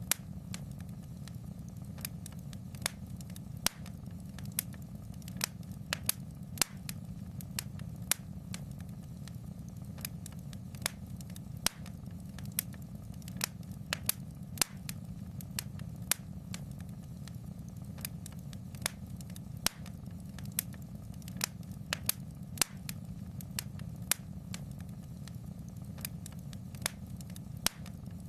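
Wood fire crackling in a fireplace: irregular sharp pops and snaps, about one or two a second, over a steady low rumble.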